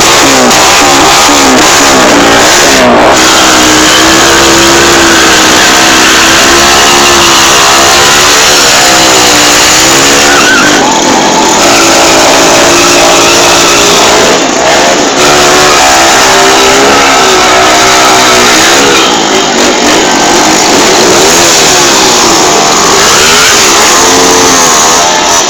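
Engine revved hard, its pitch rising and falling again and again, over a continuous tyre squeal: a vehicle doing a burnout, spinning its rear tyre in place. Very loud and near full scale throughout.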